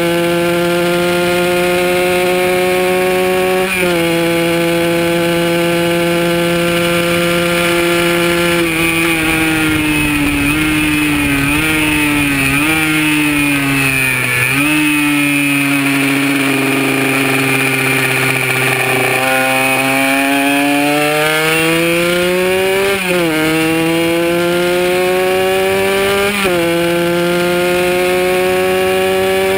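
Kawasaki KR150's single-cylinder two-stroke engine at high revs, heard from on the bike. It climbs through the gears with a sharp drop in pitch at the first upshift. About a third of the way in the revs fall in steps with short blips as it downshifts and slows for a corner. It stays low through the bend, then winds up again with two more upshifts near the end.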